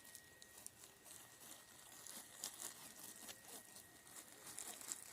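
Near silence with faint, scattered clicks and rustling.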